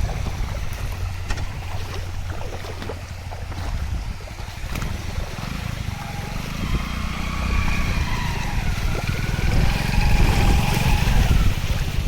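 Wind buffeting the microphone with a heavy low rumble, over the rush of river water.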